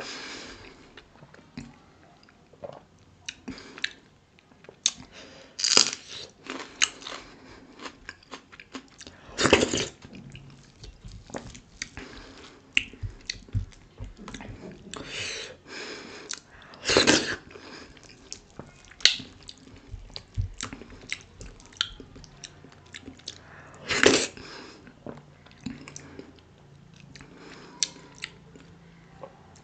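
Close-up eating sounds of a person chewing mouthfuls of dhido with sisnu nettle soup: wet chewing and smacking with small clicks throughout. About five much louder, sharper mouth sounds fall several seconds apart.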